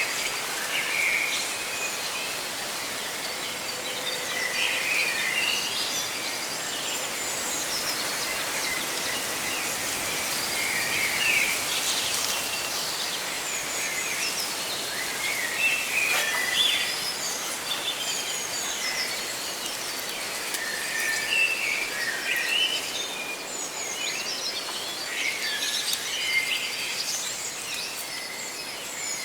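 Leaves rustling as a steady hiss, with several birds chirping over it in many short calls.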